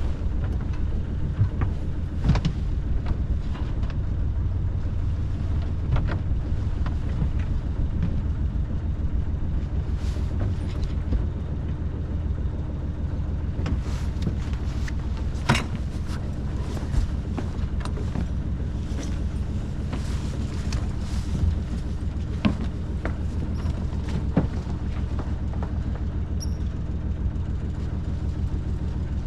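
A boat's motor running steadily under way, a constant low drone, with scattered light knocks and clicks over it.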